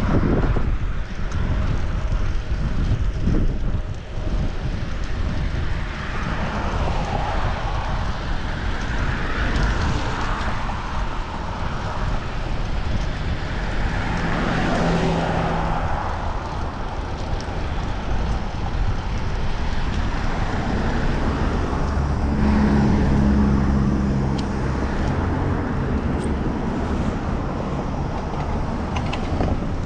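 Wind rushing over a chest-mounted GoPro's microphone while cycling, with road traffic passing. A motor vehicle's engine hums by about halfway through and again a little past two-thirds.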